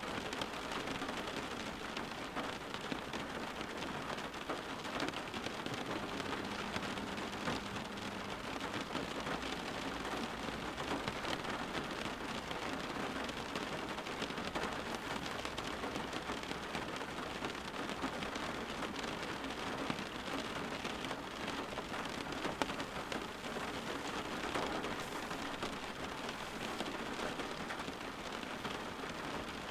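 Steady rain falling: an even hiss of rain with many small drop ticks.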